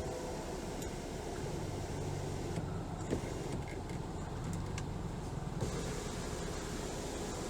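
A 2019 Ford Escape running at idle: a steady low hum, with a couple of light clicks.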